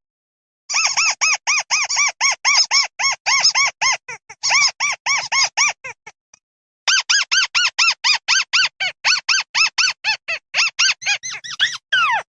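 Flock-calling call of the bird known in Vietnam as mắt xéo: a rapid run of short arched notes, about five a second, a brief pause midway, then a second run ending in a longer falling note.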